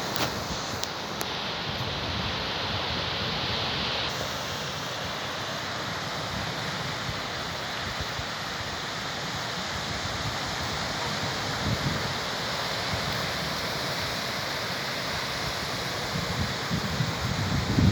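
Steady wash of sea surf on the shore, with wind buffeting the microphone near the end.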